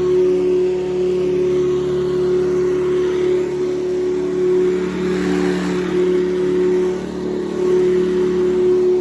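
Hoover U4387 Convertible upright vacuum's 5-amp motor with a 6-blade fan, running steadily with a strong hum. A slight swell of rushing air about five seconds in.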